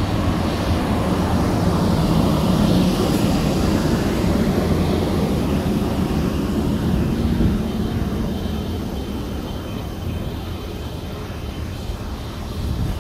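Train passing through the station: a steady rumble that swells over the first few seconds and then slowly fades away.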